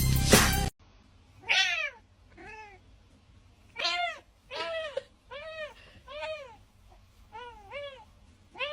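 A cat meowing repeatedly, about ten short meows, each rising then falling in pitch. Music cuts off just before the first meow.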